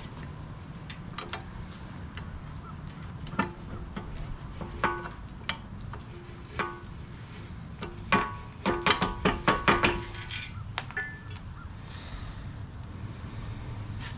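Steel parts clinking and knocking against each other with a short metallic ring: a few single strikes, then a quick run of the loudest ones about eight seconds in. A steady low hum runs underneath.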